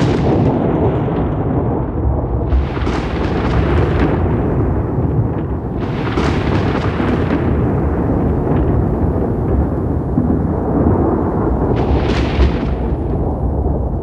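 Rolling thunder rumbling continuously, with a sharp crack right at the start and brighter crackling peals about 3, 6 and 12 seconds in.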